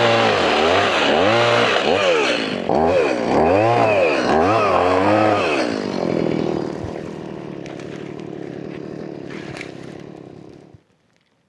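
Two-stroke chainsaw engine revved up and down repeatedly, about once a second, then dropping back to a lower steady run about six seconds in. It is shut off and stops abruptly near the end.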